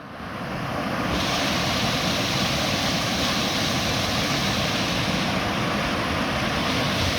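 Minnehaha Falls pouring: a steady rush of falling water that fades in over the first second or so.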